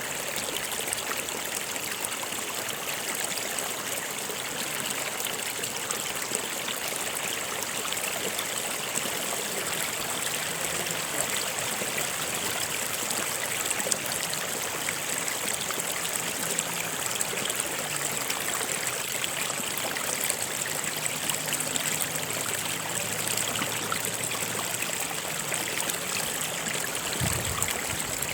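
A stream of water flowing steadily, an even rushing with small trickling sounds, and a steady high-pitched hiss running along under it.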